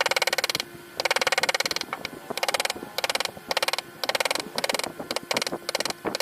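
Rasping strokes of a hand tool drawn across wood, about a dozen strokes with short gaps, the first ones longer and the later ones shorter and quicker.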